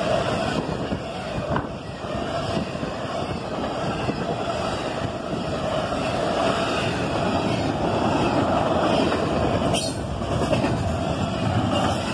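Double-stack intermodal freight cars rolling past at speed: the steady noise of steel wheels running on the rails, with one sharp knock about ten seconds in.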